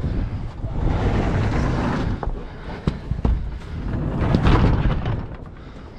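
Wind buffeting the microphone in uneven gusts, with rustling and a few sharp knocks from work on the barn door.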